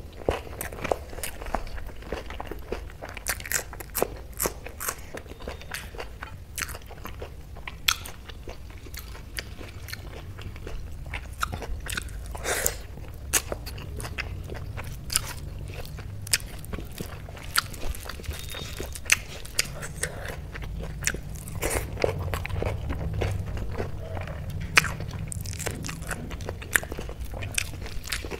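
Close-up mouth sounds of a person eating rice mixed with moong dal by hand: chewing with many sharp, crunchy clicks and smacks spread throughout, over a steady low hum.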